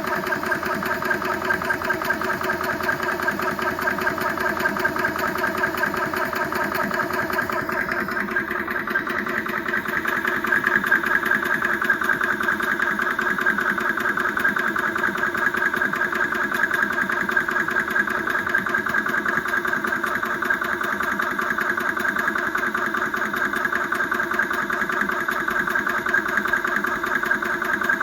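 Yong Heng 4500 psi high-pressure air compressor running steadily, pumping against about 3,000 psi with a fast, even pulsing beat. Its tone shifts a little and gets slightly louder about eight to ten seconds in.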